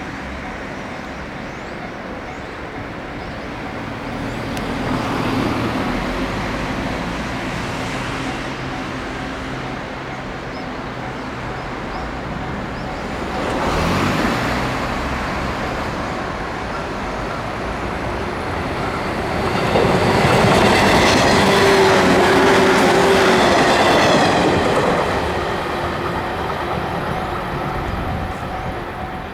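JR 115 series electric multiple unit running by on the line, wheels clattering over the rail joints. It grows louder, is loudest about two-thirds of the way through with a steady hum over the clatter, then fades.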